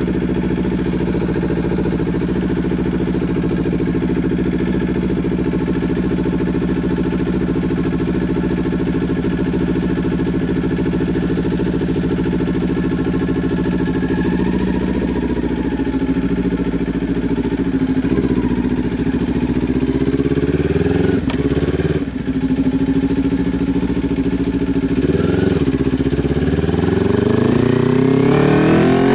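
Kawasaki Ninja 400's parallel-twin engine through a Leo Vince LV10 slip-on exhaust, running at a steady pitch for about the first fifteen seconds. Then it revs up and down, dips briefly a little past twenty seconds in, and climbs steeply in pitch near the end as the bike accelerates.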